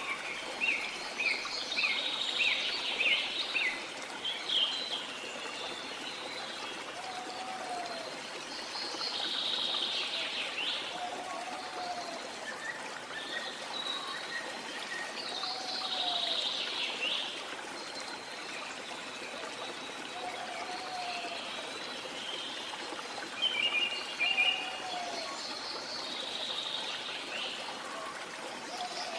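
Running water, a steady hiss throughout, with several birds calling over it: quick runs of short high notes and falling calls that come and go. A low, short call repeats every three to four seconds.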